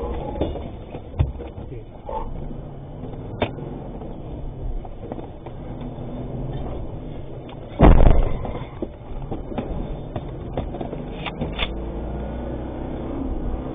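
Engine and road rumble inside a moving cash-in-transit truck, with a few sharp clicks and one heavy thump about eight seconds in.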